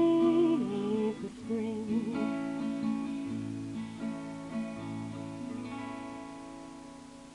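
Acoustic guitar strumming the closing chords of a folk song and letting them ring out, fading away. In the first two seconds a voice holds a note with vibrato over the chords.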